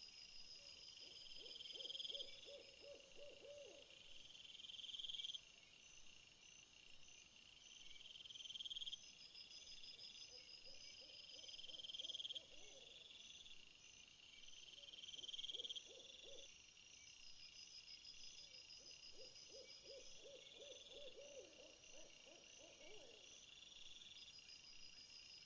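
Faint night-time insect chorus, crickets or katydids chirping in phrases that swell and repeat every few seconds. A low, rapid trilling call sounds four times, each lasting one to four seconds.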